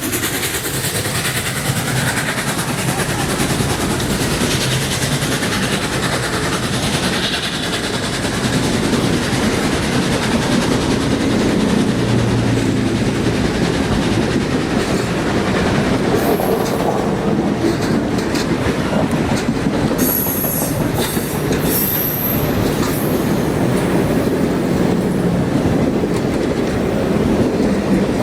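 Train behind Norfolk & Western 4-8-4 steam locomotive 611 rolling past with a steady clatter of wheels over the rails. Short high wheel squeals come in about two-thirds of the way through.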